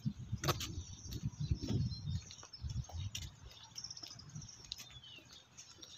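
Birds chirping faintly in short high calls, one of them falling in pitch, over low rumbling that fades after the first couple of seconds, with scattered sharp clicks.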